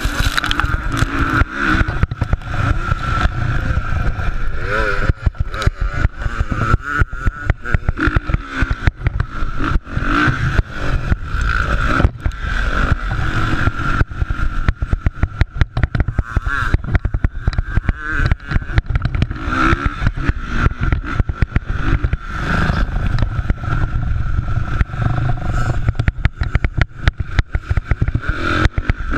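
Motocross bikes racing on a dirt track, their engines revving up and falling back again and again under a dense, crackling rumble.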